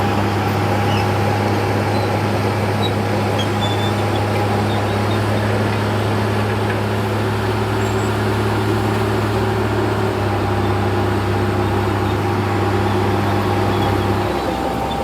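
Heavy earthmoving machine's diesel engine running steadily under load, a loud low drone with a clattering haze over it. The low hum drops away near the end.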